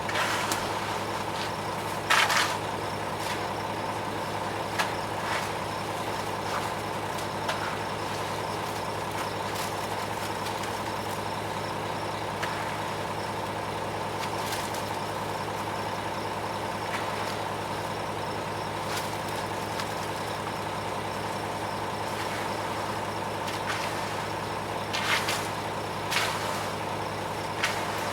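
Diesel engine of a front-discharge ready-mix concrete truck running steadily during the pour, with three brief bursts of noise, one about two seconds in and two near the end.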